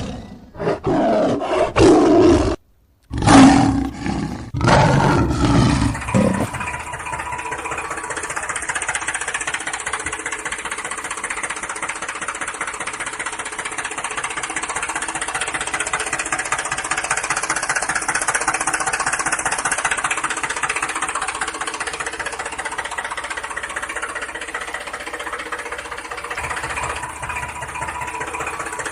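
Lion-like roars for about the first six seconds, then a small motor runs with a steady mechanical whir.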